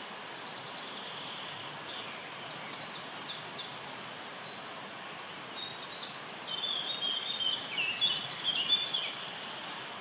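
A songbird singing a series of rapid trilled phrases, starting about two seconds in and loudest near the end, over a steady background hiss.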